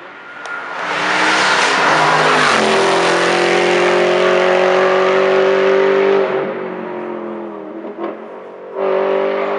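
Hillclimb race car passing at speed: its engine rises in loudness, holds a loud, steady note for several seconds, then drops off as the car goes by, with another short burst of engine near the end.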